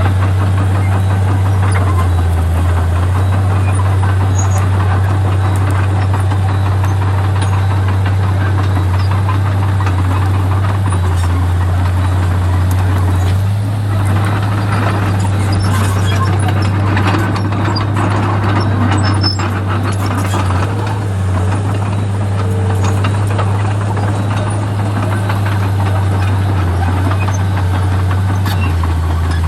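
Komatsu D31P bulldozer's diesel engine running steadily at a constant pitch, with scattered clanks near the middle.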